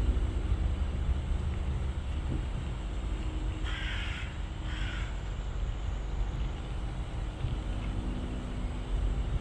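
A crow cawing twice, two short calls about a second apart near the middle, over a steady low rumble.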